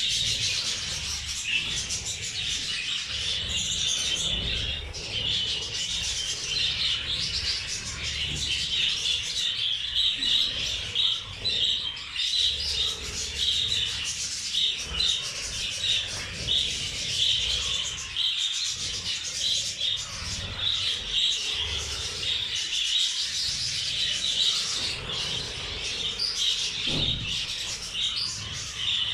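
A flock of budgerigars chattering and warbling continuously, a dense jumble of high chirps with no pauses. There is some low rumbling underneath and a brief knock near the end.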